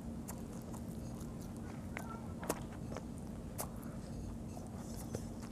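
A child chewing bhapa pitha, a soft steamed rice cake, eaten by hand: scattered faint mouth clicks and smacks, with a few sharper clicks. A steady low hum sits underneath.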